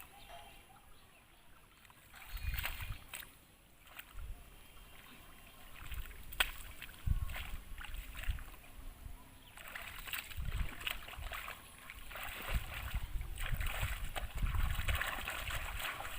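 Shallow muddy water in a paddy-field ditch sloshing and splashing irregularly as someone wades and works in it, with low thumps, busier in the last few seconds.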